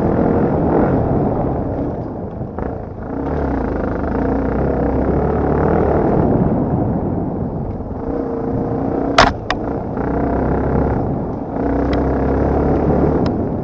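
Dirt bike engine running under changing throttle, the note rising and falling, with two sharp knocks about nine seconds in.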